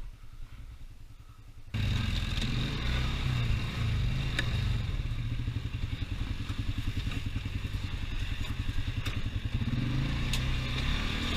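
Off-road vehicle engine running, quiet and low for the first couple of seconds, then suddenly much louder about two seconds in as the ride gets going, with a steady rhythmic engine pulse and a few sharp knocks.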